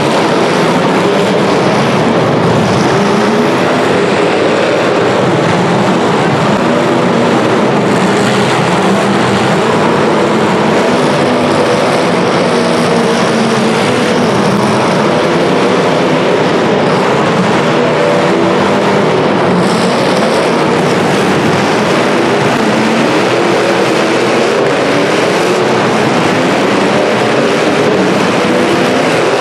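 Several demolition derby car engines running and revving together, loud and continuous, their pitches wavering up and down.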